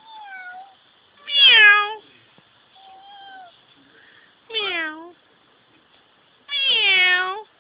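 A young child imitating a cat, meowing five times: two fainter meows and three loud, high-pitched ones that drop in pitch at the end.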